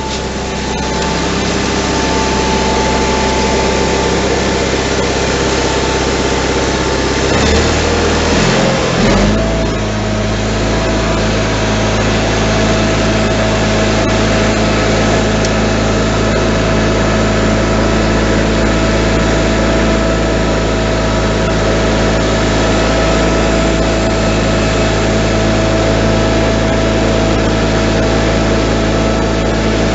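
John Deere 318 garden tractor's Onan two-cylinder engine running just after a cold start on choke; its speed shifts about eight seconds in and then it runs steadily. It needs some choke to keep running, which the owner puts down to a carburetor that probably needs cleaning.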